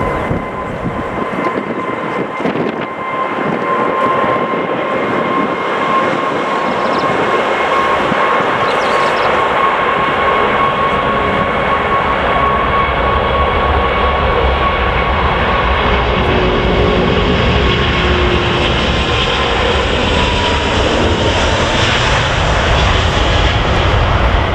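Jet airliner engines running: a steady high whine over a rushing roar that slowly grows louder, with a deep rumble building about halfway through.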